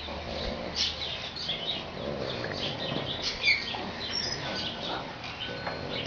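Small birds chirping: many quick, scattered high chirps and tweets, some overlapping.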